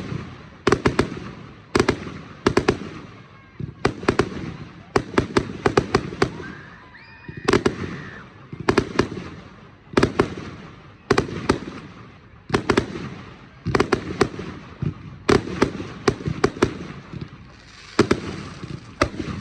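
Display fireworks going off in quick clusters of sharp bangs, several reports in each group, a new group every second or so, with crackling and rumble between them.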